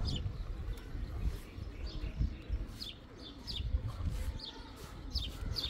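Small birds chirping in short, quick falling notes, coming more often toward the end, over a steady low rumble.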